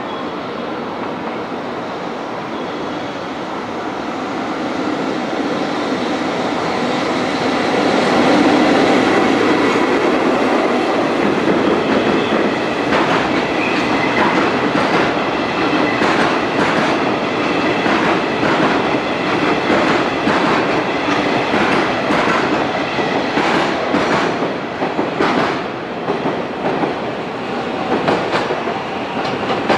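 EF65 electric locomotive hauling a rake of unpowered E6 series Shinkansen cars past on conventional track. The rumble swells to its loudest about eight seconds in as the locomotive goes by, then the cars' wheels click rhythmically over the rail joints as the rake rolls past.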